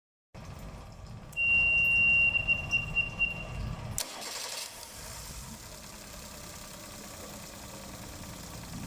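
Suzuki DF70 four-stroke outboard motor cranking on its starter while a steady high warning beep sounds for about two seconds. About four seconds in there is a sharp click, and the motor settles into a steady idle.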